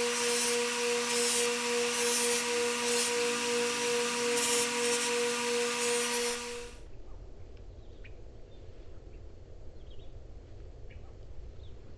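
An electric power tool running at steady speed: a motor hum with a hissing, abrasive grinding or sanding sound over it. It cuts off abruptly about seven seconds in, leaving a quiet low rumble with a few faint clicks.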